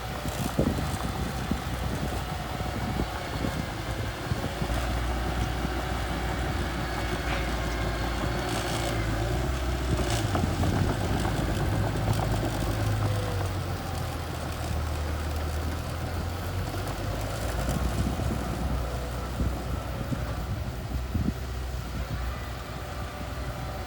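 Small bulldozer's diesel engine running steadily, louder for a few seconds around the middle, with a few short metallic clanks.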